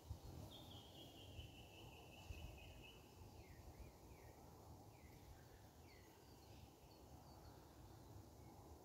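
Faint birdsong at dawn: a long high whistled note held for about two and a half seconds, then a run of five or six short notes that each slide downward, with fainter chirps near the end over a low outdoor rumble.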